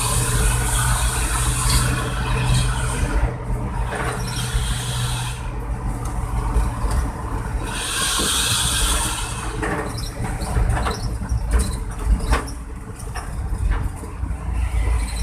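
Pick-up truck engine running through a homemade modified exhaust: a steady low drone. Loud hissing lies over it for the first two seconds or so and again about eight seconds in.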